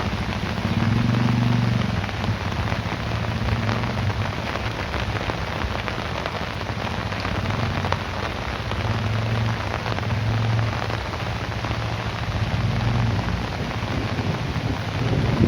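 Heavy rain falling steadily, with low thunder rumbling in slow swells a few times.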